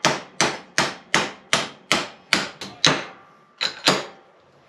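Hammer blows on an NP205 transfer case part, tapping it into place: about nine steady strikes at roughly two and a half a second, a short pause, then two more near the end.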